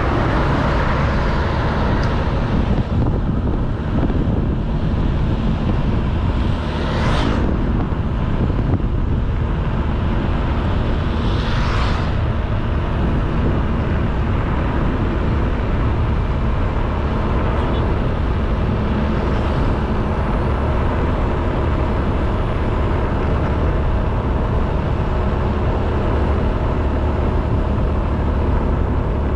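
A Honda Beat 110cc scooter under way, its engine and road noise making a steady low rumble. Two brief whooshes come about seven and twelve seconds in.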